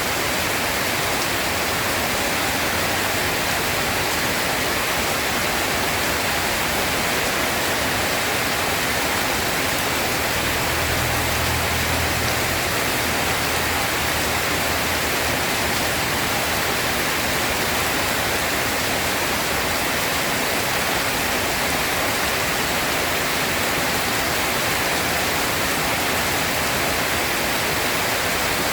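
Heavy, steady rain making a dense, even hiss. A low rumble of distant thunder rolls in about ten seconds in and lasts a few seconds.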